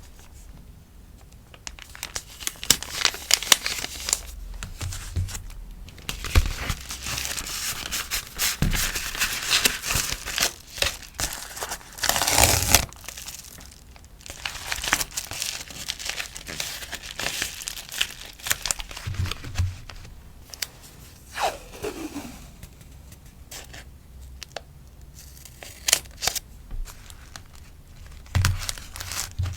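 Plastic sticker packaging rustling and crinkling as stickers are handled and packed, in many short crisp bursts with a louder burst about twelve seconds in and a short falling squeak about two-thirds of the way through.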